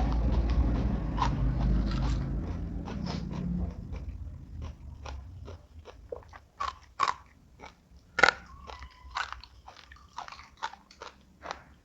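A person chewing and crunching food close to the microphone: a low, muffled chewing rumble for the first few seconds, then a run of sharp, crisp crunches, the loudest about eight seconds in.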